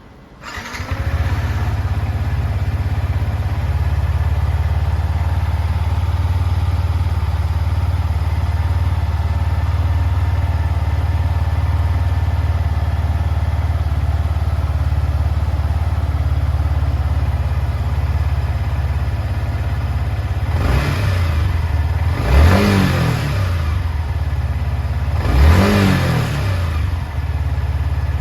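Yamaha MT-125's single-cylinder four-stroke engine starting on the electric starter, catching at once and settling into a steady idle. Later it is blipped three times, a brief rev up and back down each time, the last two the strongest.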